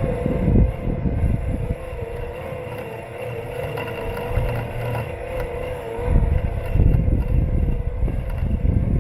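Robot lawn mower running, heard through a camera taped to its body: a steady motor whine that wavers slightly in pitch, over a low rumble that swells near the start and again in the last three seconds.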